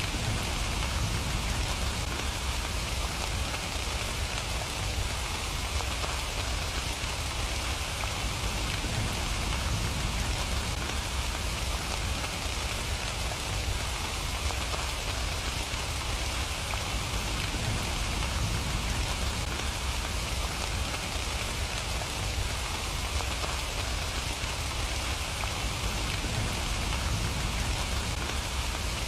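Steady rain falling and pattering on surfaces, an even hiss of drops with a low rumble underneath.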